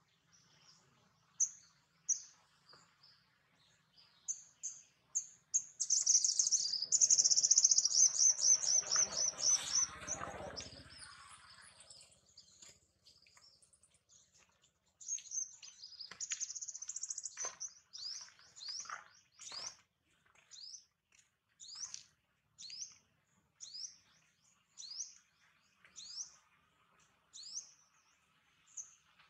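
Songbird calling: scattered high chirps, a fast run of rapid notes about six seconds in with a broad noise underneath, then a steady series of short downward-sweeping chirps, roughly one a second, through the second half.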